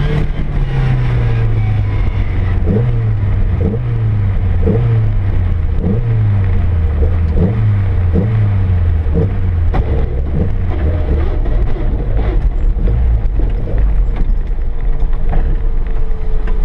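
Car engine dropping from high revs to a low, uneven running as the car rolls slowly, with a regular knock about one and a half times a second; from about eleven seconds in it settles to a steady idle.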